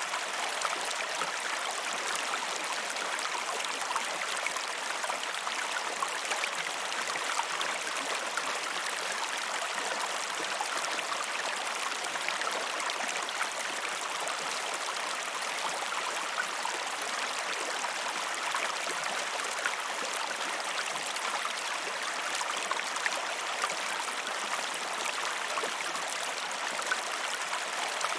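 Steady rush of a river with falling water, an even hiss with fine gurgling and splashing and no pauses.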